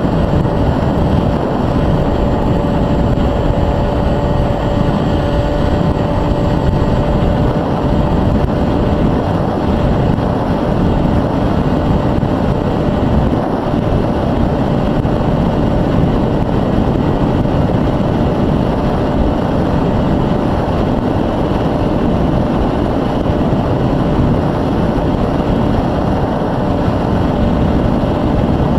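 Multiplex Easystar 2 RC plane in flight: its electric motor and pusher propeller give a steady whine, under heavy wind rush on the microphone.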